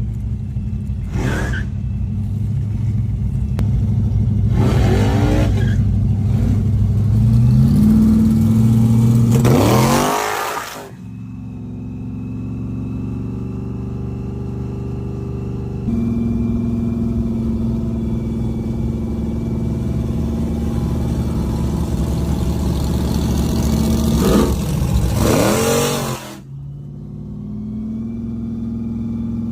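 Drag car engines running: a steady idle whose pitch steps up a couple of times, broken by four short, loud bursts of an engine accelerating hard with a sweeping pitch.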